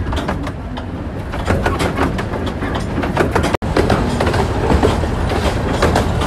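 Miniature steam railway train running, with the carriage wheels rumbling and clicking over the rail joints. There is an abrupt momentary gap about three and a half seconds in.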